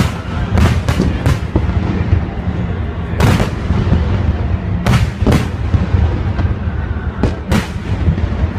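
Aerial firework shells bursting in a salute display: about nine sharp bangs at irregular intervals, several in quick pairs, over a constant low rumble.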